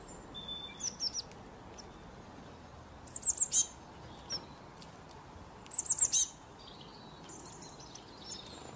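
Small bird chirping in short bursts of four or five quick, high, down-slurred notes, the loudest about three seconds and six seconds in, with fainter single chirps between, over a faint steady hiss.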